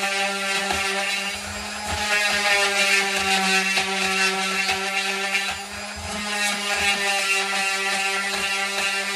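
Electric sander running steadily on wood with 220-grit paper: a constant motor whine under the scratch of the abrasive, easing briefly a second and a half in and again around six seconds.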